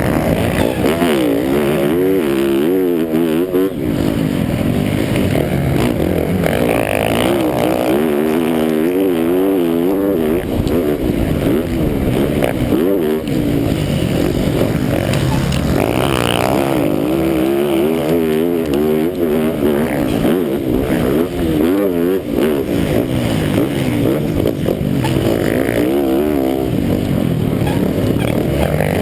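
MX1 motocross bike engine heard up close from on board, its revs climbing and falling again and again as the rider works the throttle and gears round the track.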